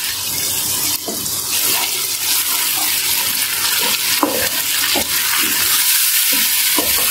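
Tomato puree sizzling and spitting in hot oil in a wok, with a wooden spatula stirring through it and a few clicks against the pan from about four seconds in.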